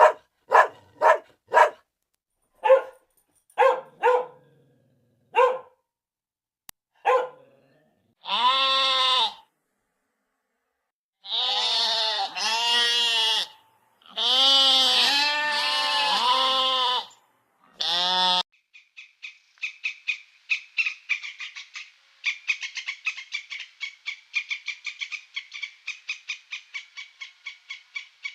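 Young farm animals calling in turn: first a string of short barks, then several long, wavering bleats, then rapid high peeping, many calls a second, from about two-thirds of the way in.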